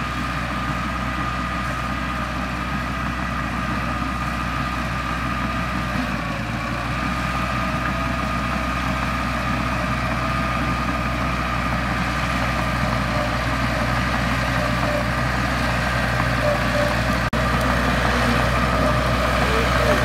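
Bulldozer's diesel engine running steadily, a low hum with a steady whine over it, slowly growing a little louder; a single short click about seventeen seconds in.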